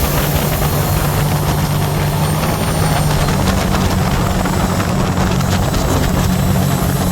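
The Scarab 165 ID jet boat's Rotax 1503 4-TEC three-cylinder engine running steadily underway, a low drone with a steady rushing noise over it.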